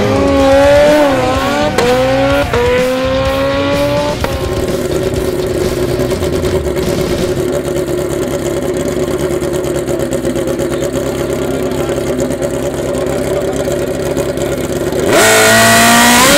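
Drag-racing motorcycle engines at full throttle, climbing in pitch and dropping back with quick upshifts, then settling into a steady drone; about fifteen seconds in a bike opens up loudly again with a rising engine note.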